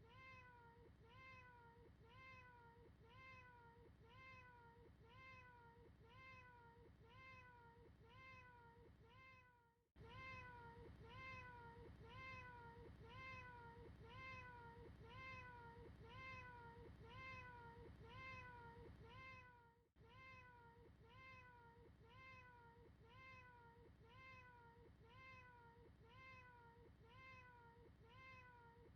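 Looped cat meow: the same short meow repeats about twice a second. It is faint, with two brief gaps where the loop restarts.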